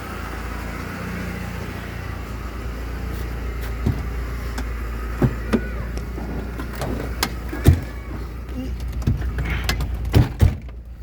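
Steady low rumble of a Mercedes-Benz A160 (W168) with a series of sharp, separate clicks and knocks over it, two of them close together near the end, like doors and fittings being handled.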